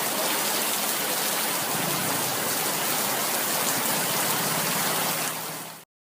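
Steady, even rushing hiss like rain or water noise, fading out quickly near the end.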